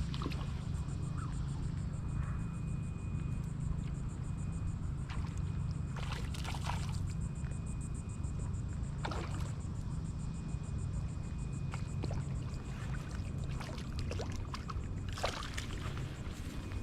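Steady low rumble, with a few brief rustles and light knocks about five, six, nine, twelve and fifteen seconds in, and a faint thin whine that comes and goes.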